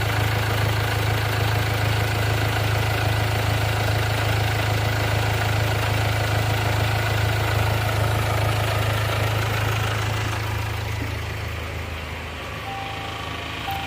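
A 2017 Range Rover Evoque's 2.0-litre four-cylinder turbodiesel idling steadily, with a low hum and diesel clatter. It becomes somewhat quieter after about ten seconds.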